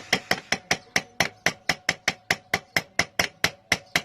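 Rapid light hammer taps, about five a second, each with a short metallic ring, driving a new universal joint bearing cap into the Triumph Spitfire 1500 drive shaft yoke.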